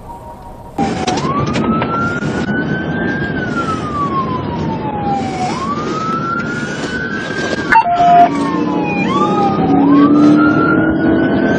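Emergency vehicle siren wailing, its pitch rising quickly and falling slowly in repeated cycles over engine and road noise. About two-thirds of the way through there is a brief loud blast.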